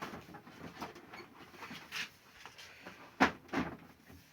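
Plastic parts of a small air cooler being handled and fitted together: a handful of scattered clicks and knocks, the loudest about three seconds in, as the cover is set onto the cooler.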